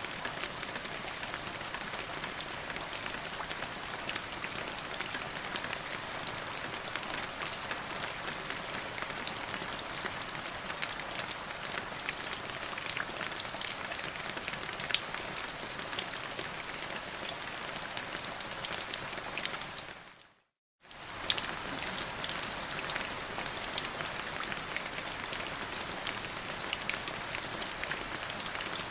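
Steady rain falling, with many separate sharp drop hits over an even wash. About twenty seconds in, the sound fades out to a brief silence of under a second, then picks up again.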